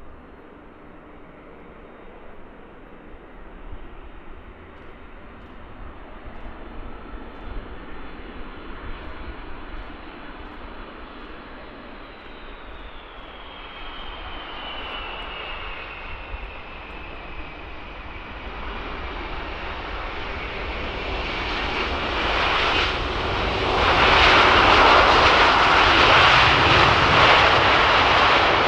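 Jet aircraft engines growing steadily louder as the plane draws near, with a high whine that slides down in pitch partway through. It is loudest over the last few seconds.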